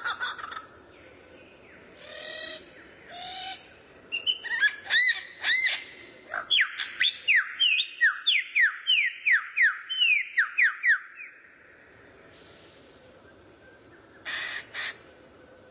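Songbird calling: a few short notes, then a quick run of about a dozen whistles, each sliding down in pitch, then near the end two short harsh rasps.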